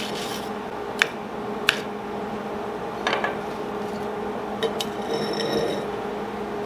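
A few sharp metal clinks and taps as steel welding work and tools are handled, over a steady machine hum.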